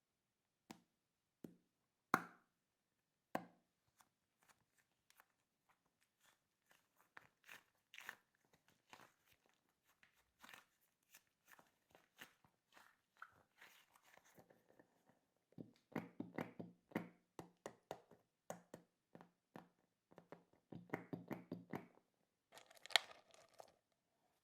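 Small toy candies and squeeze balls being handled and mixed in small plastic tubs: a string of crisp clicks and taps. Denser runs of crunching come at about 16 and 21 seconds in.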